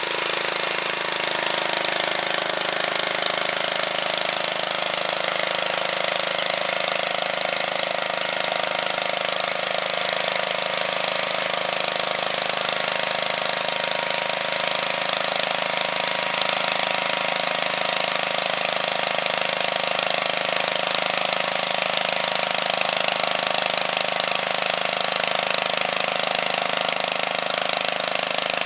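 Two-wheel walking tractor's engine running steadily under load, driving a rotary harrow with a mounted seeder. The engine note shifts slightly about a second in, then holds even.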